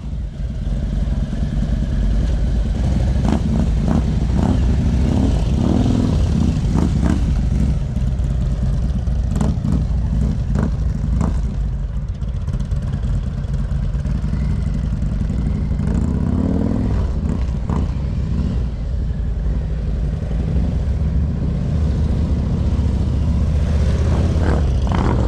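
Motorcycle engine running at low speed through a cone course, a steady low rumble with scattered sharp clicks and one brief rise in revs about sixteen seconds in.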